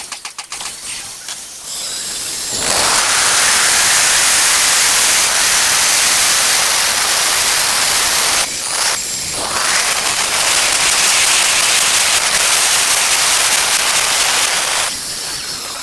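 Angle grinder cutting tile. The motor runs free for a couple of seconds, then a loud, steady hiss of the blade grinding through the tile, broken briefly about halfway, easing off near the end.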